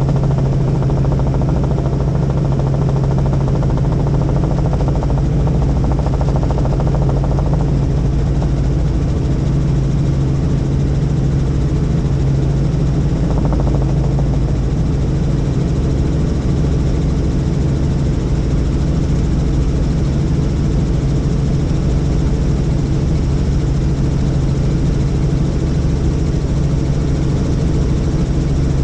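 Helicopter in flight: steady rotor and engine noise with a strong, unchanging low hum.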